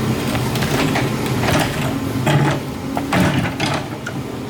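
A motor runs steadily at a low pitch under a series of sharp knocks and clattering scrapes.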